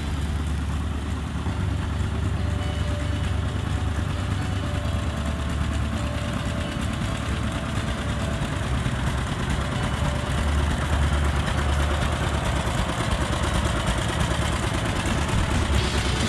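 Vintage John Deere two-cylinder tractors running at low speed as they drive past in a line. The engine sound is mostly low-pitched and grows a little louder as one tractor comes close by.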